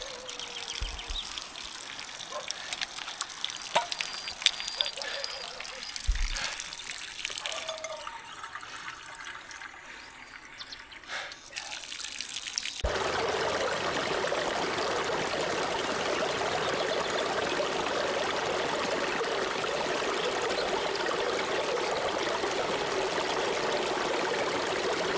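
Steady running water, a stream trickling and splashing, that starts suddenly about halfway through. Before it come scattered light clicks and knocks and a faint high call.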